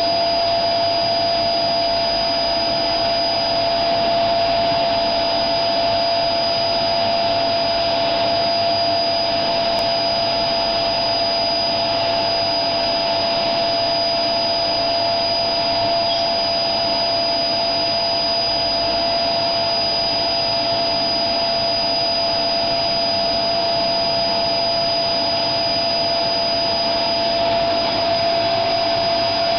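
Vacuum cleaner running steadily, a rushing airflow noise with a constant whine in two steady pitches.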